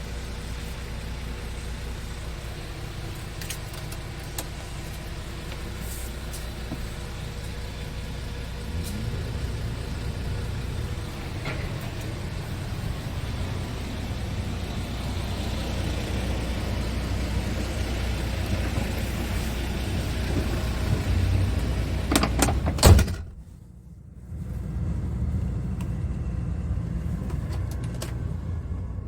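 2011 Scania R tractor unit's diesel engine idling with a steady low hum, the note stepping up slightly about nine seconds in. Near the end there is a cluster of clicks and knocks, then the sound drops away briefly before the idle returns.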